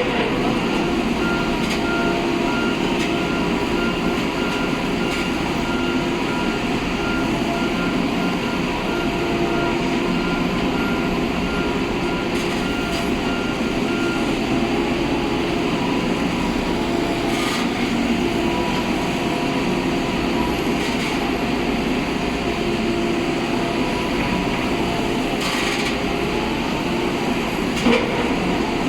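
Heavy diesel engine of a foundation drilling rig running steadily under load, with a few sharp knocks. A thin high whine drops out about halfway through.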